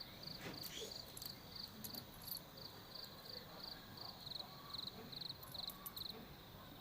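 Faint cricket chirping, a regular pulse of short high chirps about three times a second.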